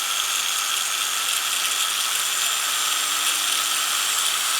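Small 5-inch 1,150-watt APT electric angle grinder running free with no disc fitted, at the second of its six speeds. Its motor gives a steady, even whir.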